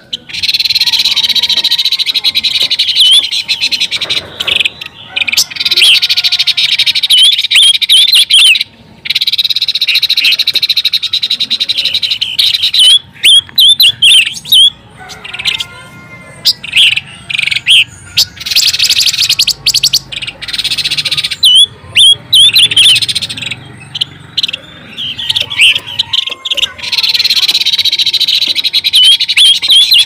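Bird-lure recording of pancawarna bird calls: rapid, high-pitched chirps and twitters over a steady high hiss, cutting out abruptly several times and starting again.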